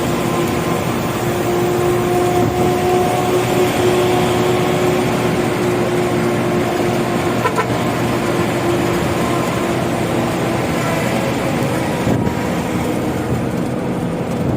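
Diesel truck running on used-cooking-oil biodiesel while being driven, a steady engine and road noise with a constant hum.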